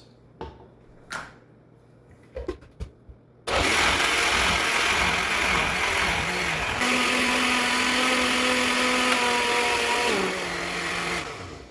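A few clicks and knocks, then an electric blender starts suddenly about three and a half seconds in, blending fresh coconut chunks with water into coconut milk. A steady motor whine comes in partway through and falls in pitch as the blender winds down near the end.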